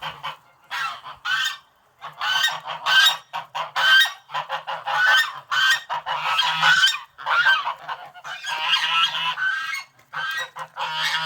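Domestic geese honking loudly in long, dense runs of calls, broken by short pauses about two seconds in and about ten seconds in.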